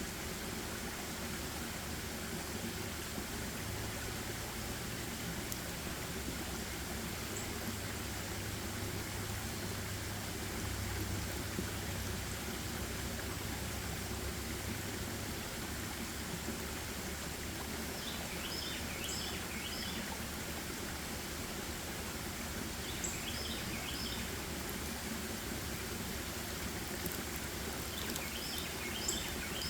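Forest ambience: a steady rush of running water, with a small bird chirping in three short bursts of quick high notes in the second half.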